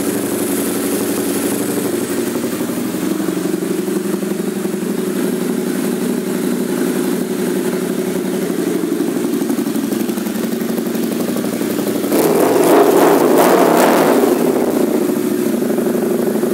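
2011 Harley-Davidson Night Rod's liquid-cooled Revolution V-twin, fitted with Vance & Hines pipes and tuned, idling steadily. It is revved once about twelve seconds in, swelling louder for a couple of seconds before settling back toward idle.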